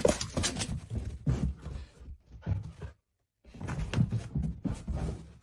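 A rapid, irregular run of thumps and knocks, broken by a short dead silence about three seconds in.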